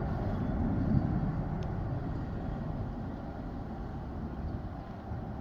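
Low rumble of a departing jet airliner's engines, loudest about a second in and then slowly fading.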